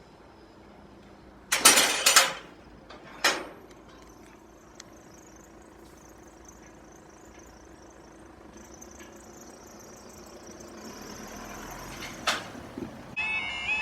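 A level crossing reopening after a train has passed: several loud clunks come between about one and a half and two and a half seconds in, with another about a second later. After that there is a quieter, slowly building road background and a sharp click near the end. Music starts just before the end.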